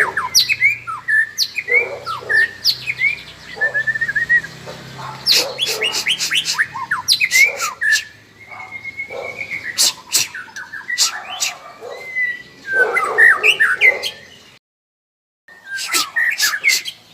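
Young white-rumped shamas (murai) calling in a busy run of quick chirps, short rising whistles and sharp notes, briefly cutting out about three-quarters of the way through.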